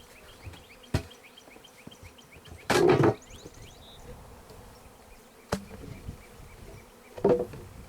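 Honeybees buzzing around an open hive. Several sharp knocks and a louder scraping thump about three seconds in, wooden hive equipment being handled and set down.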